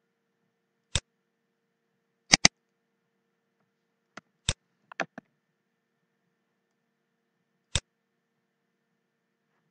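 Computer mouse buttons clicking, single clicks with a quick double click about two seconds in and a short cluster of clicks around the middle, as lines are drawn in a PDF markup tool.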